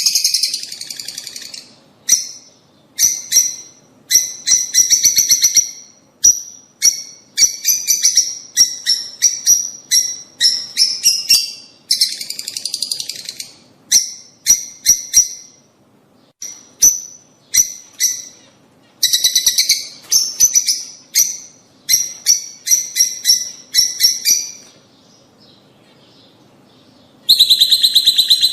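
Lovebirds chattering: rapid, shrill chirps and harsh screeches in quick bursts. The calls stop for about two seconds near the end, then a loud burst starts again.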